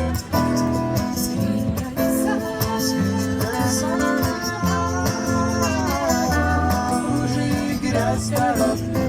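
Live band music: strummed acoustic guitar over a steady pulsing bass beat, with a melody line that slides up and down in pitch partway through.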